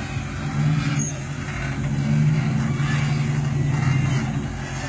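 GMC Envoy SUV's engine running under load as it crawls over logs, its revs swelling and easing. A couple of brief high squeaks sound over the engine.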